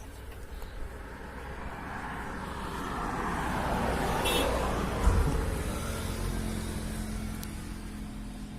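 A motor vehicle driving past, its sound swelling and then fading, with a sharp thump about five seconds in.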